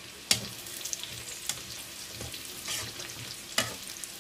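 Sliced shallots and garlic frying in hot oil in a wok, with a steady sizzle as they are fried toward crisp. A metal utensil stirs them, clacking sharply against the wok about a third of a second in and again near the end, with lighter scrapes between.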